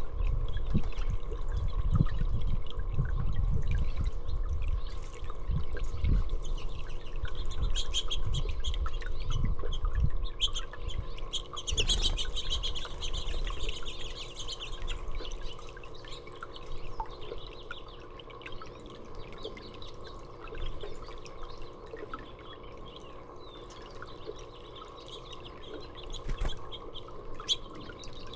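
Small songbirds chirping and calling, with a denser run of song about halfway through, over a steady trickle of water. A low rumble sits under the first half and fades away after about fifteen seconds.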